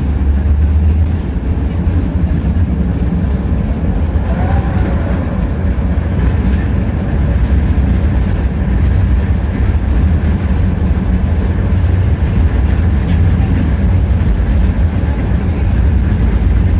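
Tram in motion heard from inside the passenger car: a steady low rumble of wheels running on the rails.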